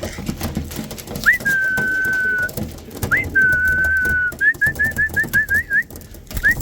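A person whistling to call pigeons in to feed. There are two long whistles that each sweep up and then hold steady for about a second, then a quick run of about eight short chirped whistles. Another rising whistle comes near the end.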